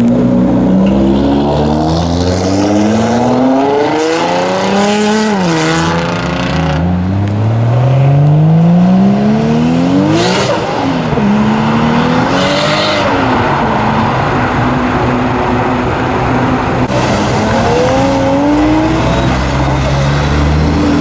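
Modified Japanese cars accelerating hard through the gears: the exhaust note climbs in pitch through each pull and drops at each shift or as a car goes past. There are several pulls in a row, and the longest, loudest one peaks about halfway through.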